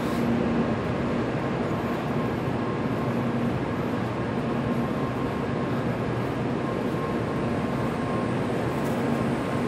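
Steady hum and hiss of a Kyushu Shinkansen train standing at the platform with its onboard equipment running, heard up close along the platform. A low tone in it comes and goes.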